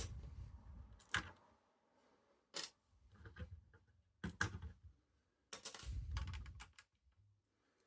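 Plastic Lego pieces being handled: irregular small clicks and light knocks in several clusters, with dull low bumps under some of them.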